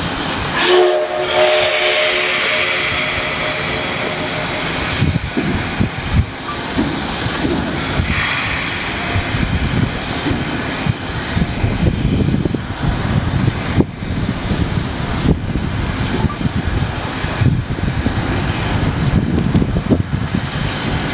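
A C57 steam locomotive's whistle gives a short blast, about a second and a half long, about a second in. It is followed by a steady hiss and low rumble.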